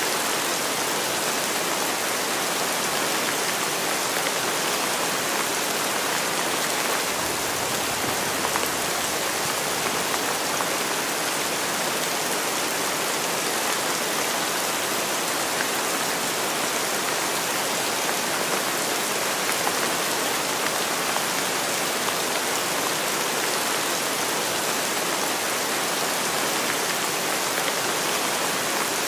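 Heavy rain falling steadily: a dense, even hiss of a downpour, unchanging throughout.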